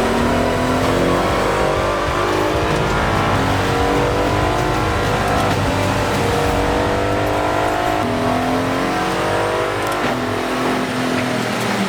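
Aston Martin Vantage GT4 race car's V8 heard from inside the cabin, running hard on track. Its pitch climbs steadily and drops back every second or two as it shifts, with tyre and road noise under it.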